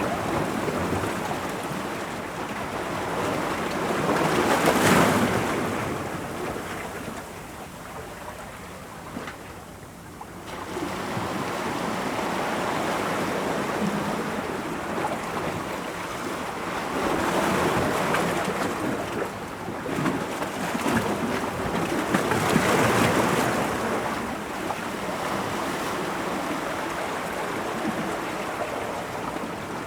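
Ocean waves breaking on rocks, a continuous rush of surf that swells with each breaking wave, peaking a few times and dipping briefly between sets.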